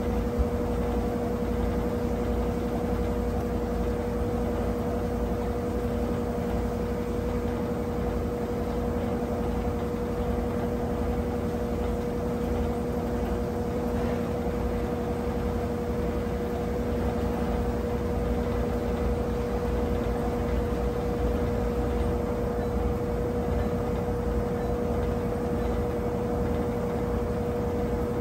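Brastemp 17 kg top-load washing machine running mid-cycle: a steady motor hum with a constant whine over a low rumble.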